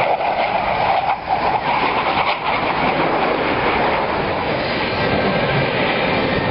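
Jet aircraft engine noise: a loud, steady rushing sound, briefly dipping about one and two and a half seconds in.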